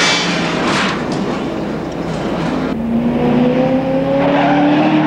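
Car engine running hard under heavy road and tyre noise; a little under three seconds in, the engine note comes to the fore and climbs steadily in pitch as the vehicle accelerates.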